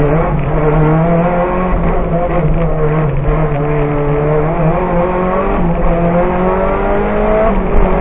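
Lancia Delta Evo rally car's engine, heard from inside the cabin, revving up and down as the car accelerates and lifts between cones. Near the end the revs climb steadily, then drop sharply.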